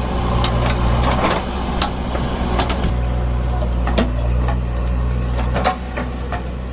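JCB 3DX backhoe loader at work: its diesel engine running steadily, with irregular sharp knocks and clatters from the machine working.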